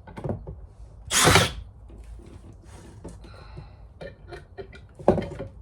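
Power drill driving screws in two short bursts, one about a second in and a briefer one near the end, with light knocks and handling clicks between.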